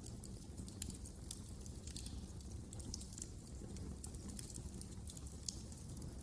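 Wood fire crackling in a fireplace: irregular sharp pops and snaps scattered over a low, steady rush of burning.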